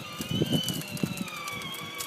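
Electric motor of a child's battery-powered ride-on toy car, whining as it drives, its pitch sinking slowly as the car slows, with low bumping from the wheels underneath. The adult takes this slowing for a weak battery that needs charging.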